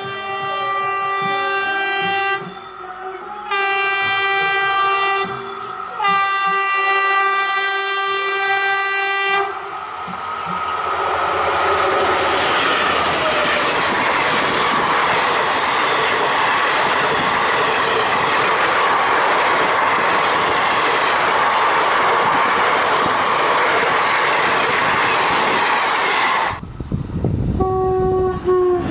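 Indian Railways electric locomotive sounding its horn three times as the express approaches at speed, the third blast the longest. Then the coaches rush past close by with a long, steady, loud rolling noise of wheels on rail. After a sudden cut near the end, another locomotive horn sounds, dropping slightly in pitch.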